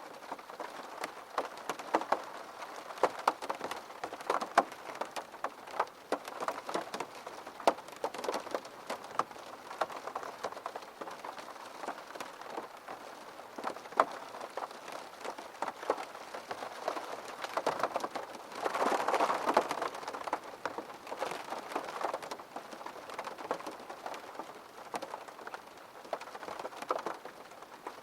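Steady rain falling on a surface, with many individual drops clicking sharply over a continuous hiss. A heavier, louder patch comes about two-thirds of the way through.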